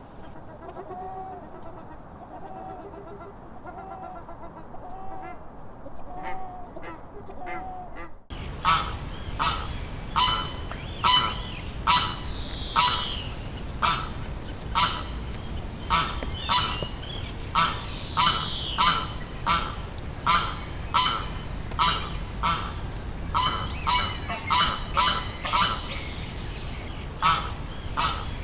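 Ducks calling. First come soft, rounded calls about once a second; then, after an abrupt cut about 8 seconds in, loud nasal honking calls, one or two a second and often in pairs.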